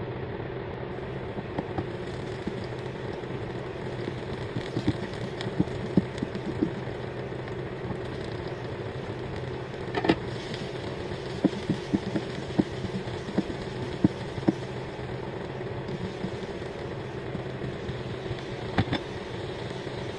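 Garlic, onion and vegetables frying in hot oil in a wok: a steady sizzle dotted with small pops and crackles, with a sharper click about ten seconds in and again near the end.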